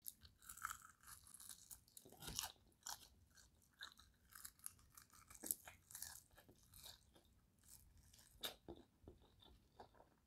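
Quiet, close-up crunching and chewing of crispy fried, dry-rubbed chicken wings as they are bitten into. Irregular crisp crunches run throughout, with a few sharper bites about two, five and a half, and eight and a half seconds in.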